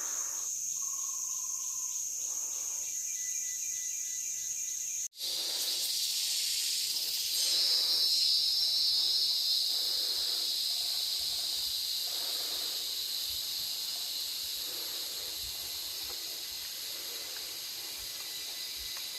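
Forest insect chorus of cicadas and crickets, a steady high-pitched whine. About five seconds in it cuts off for an instant, and a lower, louder drone takes over, swelling around eight seconds and then easing.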